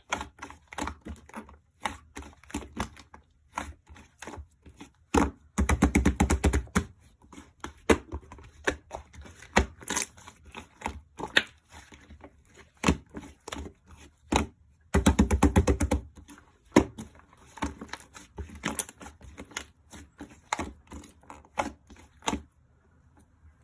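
Irregular sharp taps and clicks of something being handled, with two bursts of rapid clicking about five and fifteen seconds in, each lasting a second or so. The sounds stop near the end.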